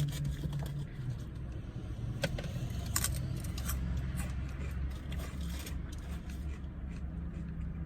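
Steady low hum of a car, with scattered small clicks and rustles from handling food and its packaging while eating.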